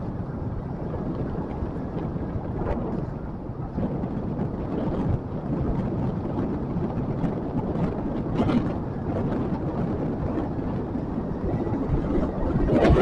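Motorcycle riding along, its engine running under a steady rush of wind on the microphone, with a few brief knocks and a rise in loudness near the end.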